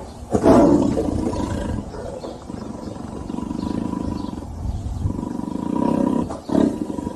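Big cat roaring, a sound effect: a loud roar about half a second in that trails off, a lower steady rumble in the middle, and a shorter roar near the end.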